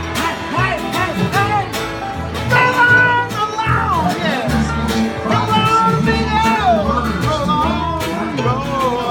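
Live bluegrass string band playing an instrumental passage: a fiddle melody sliding between notes over picked banjo and guitar and steady bass notes.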